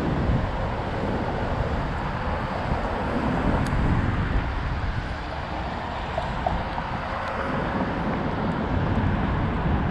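Steady wind rush buffeting the microphone, with rolling noise from riding a bike.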